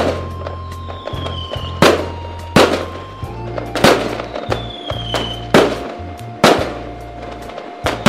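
Fireworks going off: about six sharp bangs, roughly one a second, two of them led in by a falling whistle. Background music with a low bass plays underneath.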